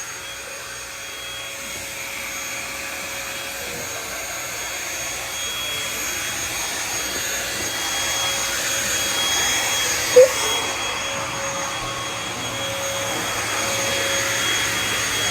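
Vacuum cleaner running steadily with a high whine, growing gradually louder as it is pushed along. A brief sharp sound about ten seconds in.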